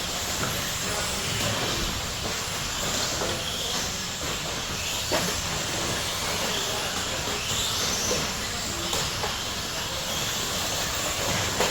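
Electric 1/10-scale RC stadium trucks with 13.5-turn brushless motors racing, a steady hiss of motors and tyres with a few faint rising whines as trucks accelerate. A couple of sharp clicks, about five and nine seconds in, sound like trucks landing or hitting something.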